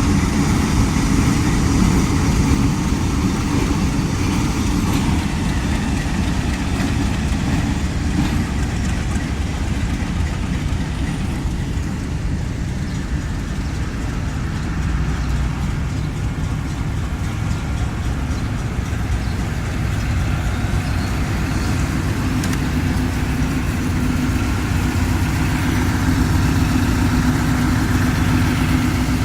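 Diesel locomotive engine running steadily at low revs, a continuous deep drone with a low hum.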